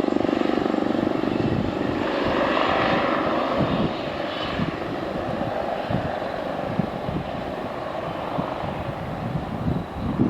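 Airbus Helicopters EC-135 T2+ twin-engine turbine helicopter flying by and moving away: a steady rotor and turbine drone that drops in level about four seconds in.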